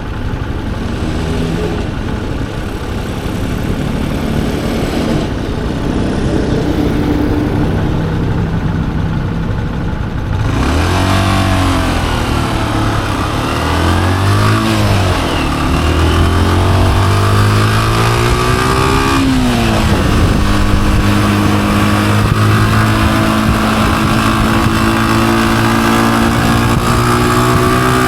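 Honda CG125's single-cylinder four-stroke engine running at low, steady revs, then from about a third of the way in accelerating through the gears, the revs rising and dropping back at each of several shifts, before settling into a steady cruise.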